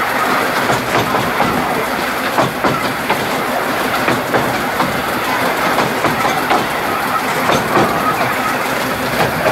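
Narrow-gauge train running steadily along the track, with a continuous rumble and frequent clicks of the wheels over the rail joints.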